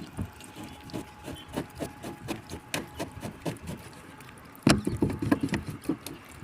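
Irregular knocks and taps, with a louder run of quick knocks about four and a half seconds in.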